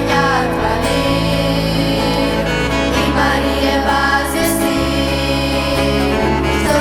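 Voices singing a Christian church song over instrumental accompaniment with sustained bass notes.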